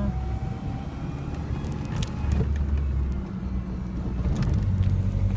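Old Ford Ranger pickup's engine heard from inside the cab while driving: the revs drop at the start as the manual gearbox is shifted up, then the engine pulls steadily in the next gear, with a few faint clicks.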